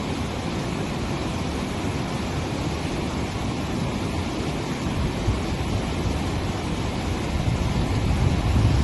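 Steady rush of fast-flowing floodwater, mixed with wind buffeting the microphone. The low rumble swells near the end.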